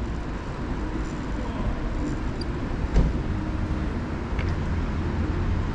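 Steady low rumble of city street traffic with no speech, and a single sharp knock about three seconds in.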